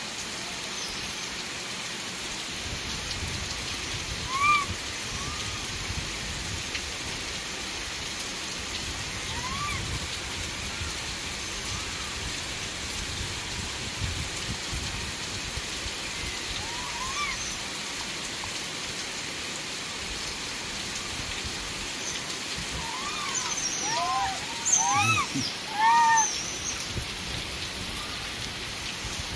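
Steady rain-like hiss with short, arching squeaky calls from monkeys in a troop: single calls now and then, and a quick run of louder ones near the end.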